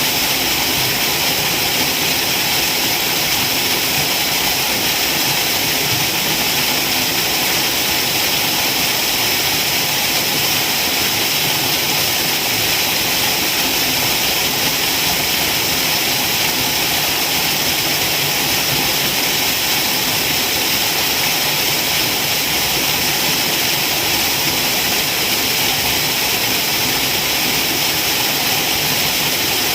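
Waterfall: a steady, unbroken rush of falling water, with a hiss strongest in the high range.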